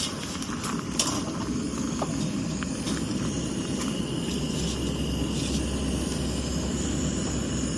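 Campfire burning: a steady low rush with scattered crackles and sharp pops, the loudest pop about a second in. A low hum comes in about halfway.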